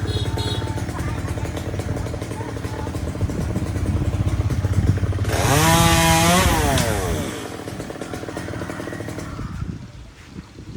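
Small petrol engine running steadily, then revved up and back down about halfway through, the loudest moment.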